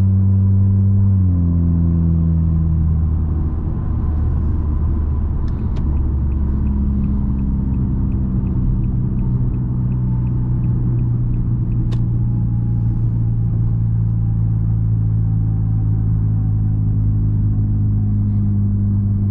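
Straight-piped 2020 Nissan Altima's exhaust droning while driving, heard from inside the car. The pitch drops about a second in, climbs again around five seconds in, then holds steady.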